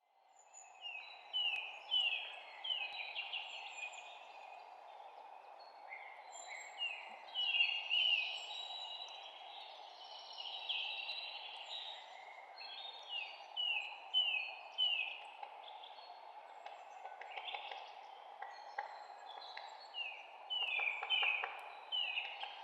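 Several songbirds chirping, with many short, quickly falling notes repeated in runs, over a steady hiss.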